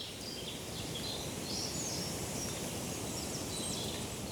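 Forest ambience: small birds chirping now and then over a steady background hiss and low rumble.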